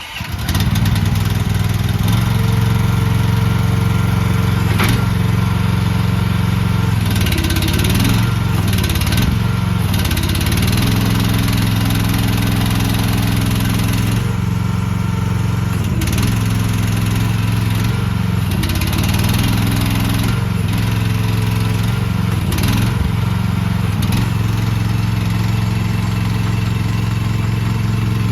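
2024 AGT MH12R mini excavator's engine catching from a cold start, then running steadily. Its note shifts briefly several times, with short hissing stretches, as the machine is worked.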